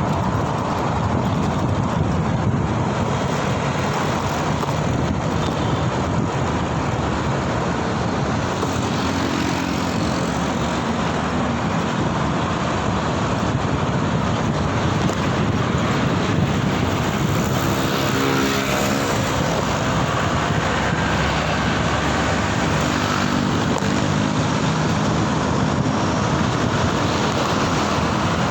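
Steady wind rush and road traffic noise heard on the move through city streets, with a passing vehicle's engine rising and falling a little past the middle.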